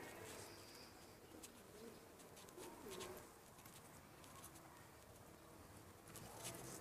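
Fancy domestic pigeons of the Iraqi masaki and anabir breeds cooing faintly, low and soft, with a few light clicks.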